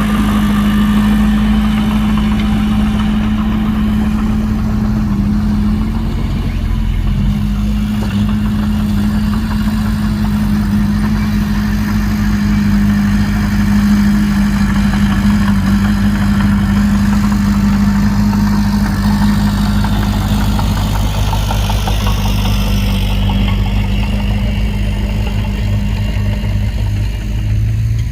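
A heavy earthmoving machine's diesel engine running steadily with an even, unchanging drone.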